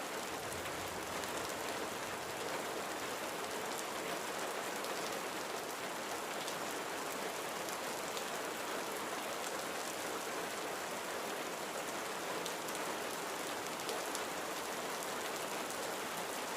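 Steady rain falling on a window, with fine scattered drop ticks over an even hiss.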